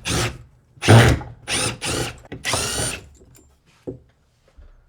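Power drill run in about five short trigger bursts over three seconds, each with a high motor whine. A single knock follows about four seconds in.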